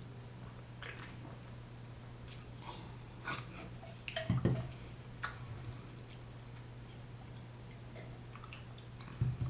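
Close-miked chewing of deep-dish pizza: a few scattered wet mouth clicks and smacks, loudest around the middle and again near the end, over a steady low hum.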